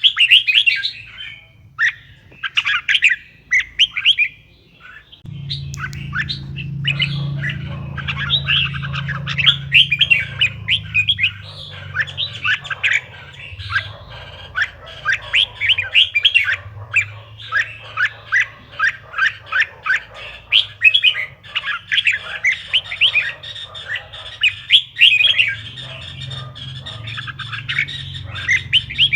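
Red-whiskered bulbul song: rapid, continuous runs of short chirping notes, over a low steady hum that comes in about five seconds in.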